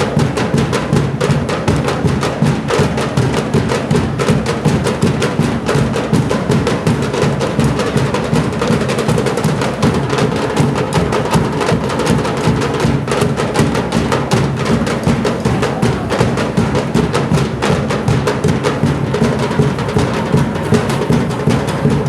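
Percussion-driven music with drums and a fast, steady beat that keeps going throughout.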